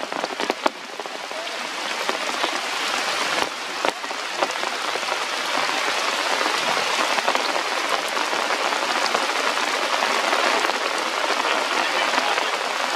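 Steady rain falling through forest foliage: a dense, even hiss with scattered sharp drop ticks, building a little over the first couple of seconds and then holding steady.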